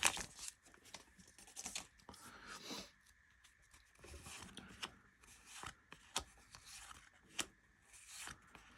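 A trading-card pack wrapper being torn open and the cards inside handled: faint rustling and tearing with a few light clicks.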